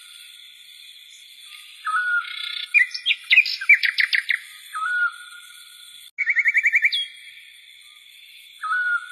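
Small birds chirping and whistling: a short whistle that rises then holds steady, repeated every few seconds, a cluster of quick chirps near the middle, and a rapid even trill just after the middle.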